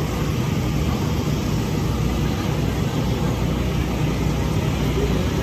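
Steady low rumble under an even wash of outdoor background noise, with no clear single event.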